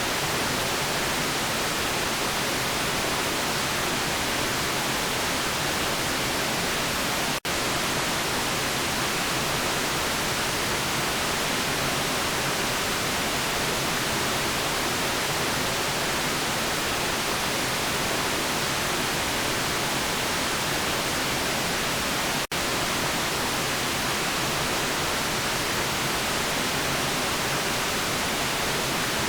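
Steady white noise, an even hiss with no change in pitch or level, broken twice by a split-second dropout, about seven seconds in and again about twenty-two seconds in.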